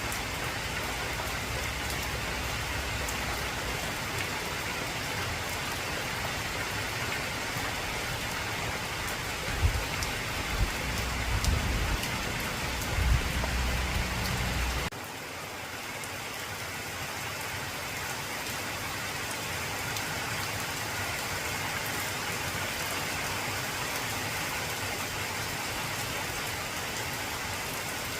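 Heavy rain falling steadily on an old corrugated tin roof. About ten seconds in a low rumble of thunder with a few louder cracks joins it, then cuts off suddenly around the middle.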